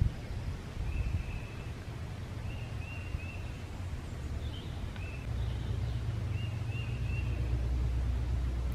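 A small bird chirping faintly: short high notes, mostly in quick groups of two or three. Under it is a steady low rumble that grows louder about five seconds in.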